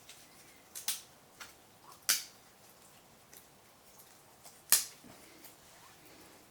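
Wood fire crackling: a few sharp, scattered pops, the loudest about two seconds in and just before five seconds, over a quiet background.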